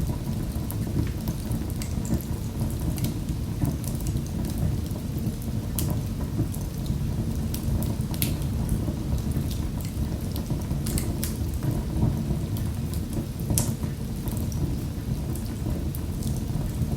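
Wood fire burning in a fireplace: a steady low roar of flames with scattered, irregular crackles and pops.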